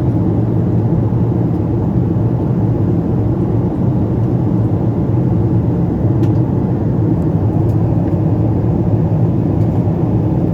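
Steady drone of engine and airflow noise inside the cabin of a Boeing 777-200 airliner in flight, deep and unchanging, with a faint tick about six seconds in.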